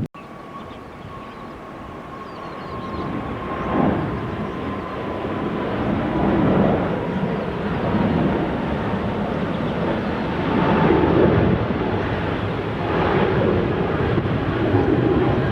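Jet airliner's engines at takeoff power, the roar building over the first few seconds and then staying loud. A thin whine slowly falls in pitch as the plane goes by.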